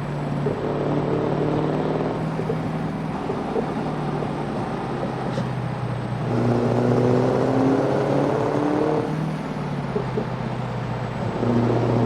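Scania V8 diesel truck engine with a straight-pipe exhaust running with a steady low note. It grows louder for a few seconds from about halfway through, and again near the end.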